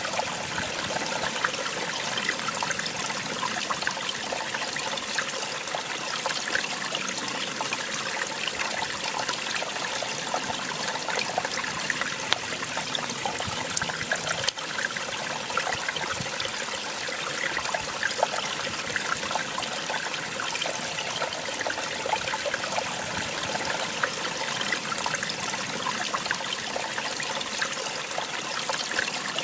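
Small waterfall splashing and trickling steadily, a dense, even rush of falling water with fine bubbling detail.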